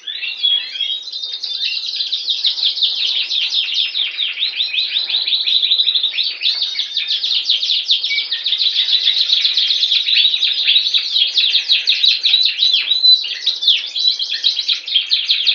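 Canary singing a long, unbroken song of rapid high trills and chirps.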